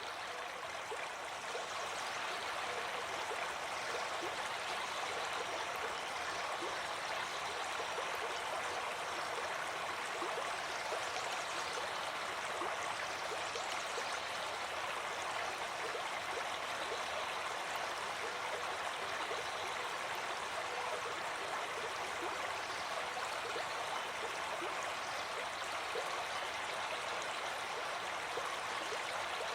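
A small brook babbling: steady rushing and gurgling of water flowing over stones, even throughout.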